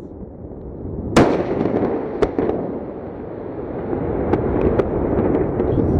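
Rocket roaring with a low rumble that builds, broken by a sharp bang about a second in, a second bang a second later, and scattered crackles, as from a rocket blowing up.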